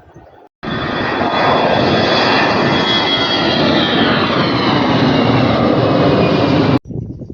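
Jet airliner engines, loud, with whining tones that slowly fall in pitch as the aircraft passes close by; the sound starts and cuts off abruptly.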